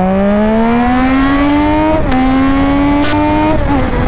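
Triumph Street Triple 675's inline three-cylinder engine, fitted with an SC-Project aftermarket exhaust, pulling hard on the throttle. The engine note climbs steadily, drops with an upshift about two seconds in, then climbs again and drops once more near the end.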